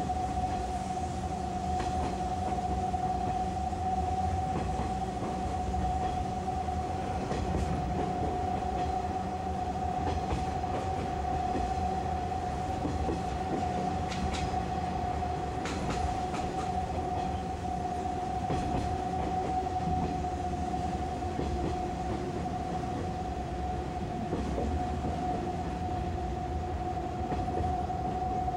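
Running noise inside a 185-series electric train car on the descent from Karuizawa to Yokokawa: a steady rumble of wheels on rail with a continuous high hum held at one pitch.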